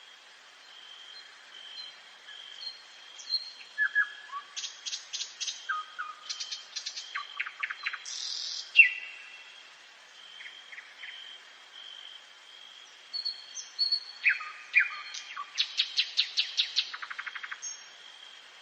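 Nightingale singing at night: two song phrases of rapid repeated sharp notes, whistles and trills, the first from about 3 to 9 seconds in, ending on a loud single note, and the second from about 13 to 17 seconds in, ending in a fast trill.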